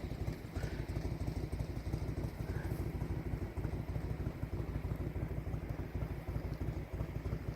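Motorcycle engine idling steadily, a low rapid pulsing rumble.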